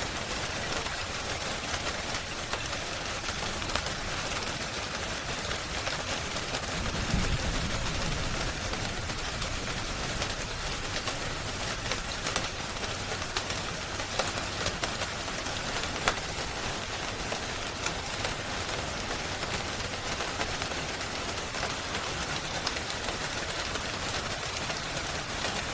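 Steady rain hiss with scattered sharp pops and crackles from a wood fire, with a brief low swell about seven seconds in.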